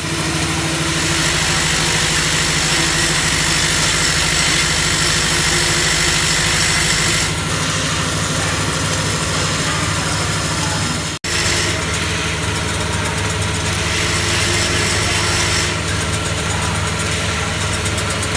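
PVC liner injection and oven-drying machine for aluminium bird nest caps running with a steady mechanical hum and hiss. The sound cuts out for an instant about eleven seconds in and then carries on much the same.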